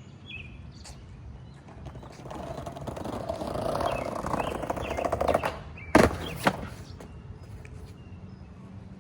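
Skateboard wheels rolling on pavement, growing louder as the board comes closer, then a sharp loud clack about six seconds in and a smaller one half a second later: the board's tail popping and the board hitting the ground on a jump attempt.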